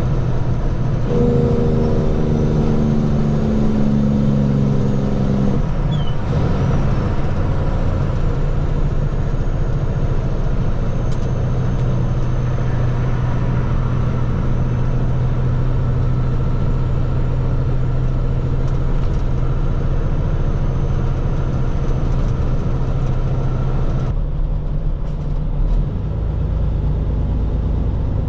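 Water truck's engine running steadily while driving, with road hiss. A higher pitched engine note stands out for the first few seconds, and the hiss falls off near the end.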